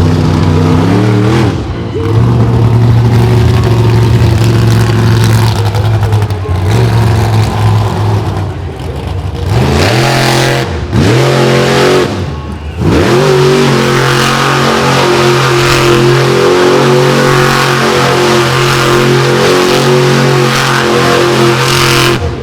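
Monster truck engine running loud and steady, revving up and dropping back about a second and a half in, then blipped several times in quick succession between about ten and thirteen seconds in.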